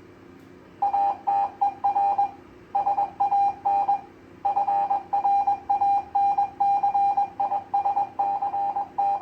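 GMRS repeater's automatic station ID sent in Morse code over the radio: one steady beeping tone keyed in short and long beeps, grouped into letters with short pauses, starting about a second in.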